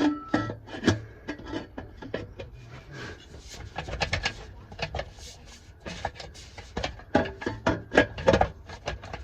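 Irregular knocks, clinks and scrapes of steel exhaust pipe and clamp parts being pushed and worked into place.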